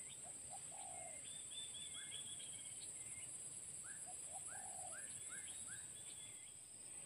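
Faint birdsong: a low cooing phrase of two short notes and a longer falling note, heard near the start and again about four seconds in, among higher chirps and a quick run of short rising whistles.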